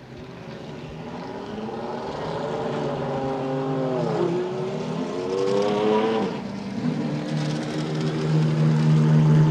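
Race truck engine coming closer and getting louder; its pitch dips about four seconds in, climbs again, drops off briefly, then holds steady and loud near the end.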